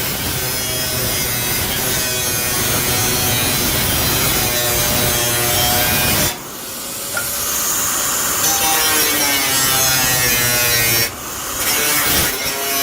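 Handheld electric power tool working on the build, a dense grating noise over a motor whine whose pitch shifts under load. It eases off briefly about six seconds in and again near the end, then bites in again.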